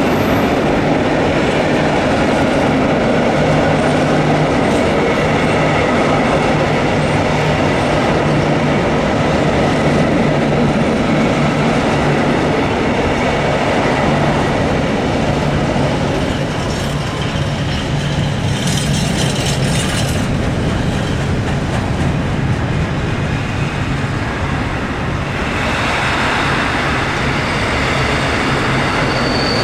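Diesel-hauled freight train rolling past, its wagons' wheels rumbling and clattering on the track. A high-pitched wheel squeal comes in near the end.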